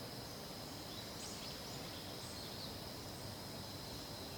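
Field-recording ambience between wild bird calls: a steady high-pitched hum, with a few faint, short, high bird notes about one and two seconds in.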